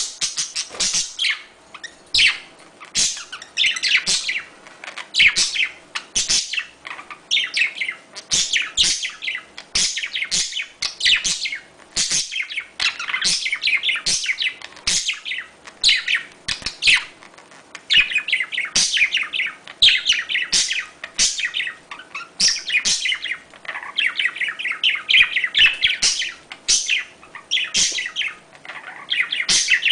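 Budgerigars chirping and warbling nonstop in quick, high-pitched runs of short notes: budgie mating-call chatter.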